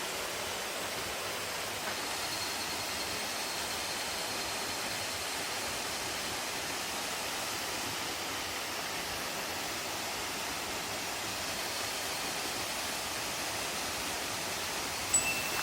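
Waterfall: a steady, even rush of falling water. At the very end a wind chime starts to ring.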